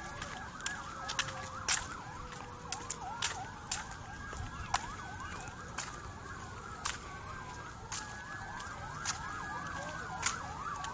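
Several emergency vehicle sirens sounding at once and overlapping, some in a fast yelp and others in a slow rising-and-falling wail, at moderate level. Sharp clicks cut in every second or so.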